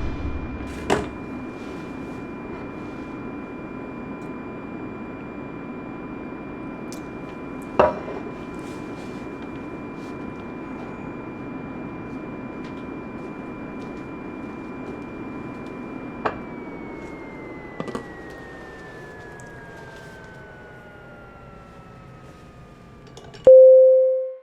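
Jet engine whine over a steady cabin rumble, several tones held level, with a few soft clicks. About two-thirds of the way through the whine slowly slides down in pitch as the engine spools down. A loud single tone sounds just before the sound cuts off.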